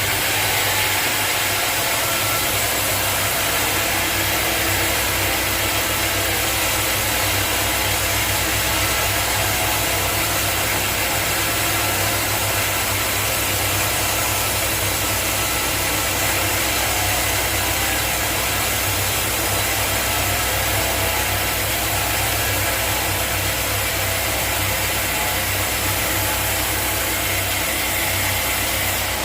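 Sawmill saw and its motor running steadily: a constant low hum under an even, high hiss.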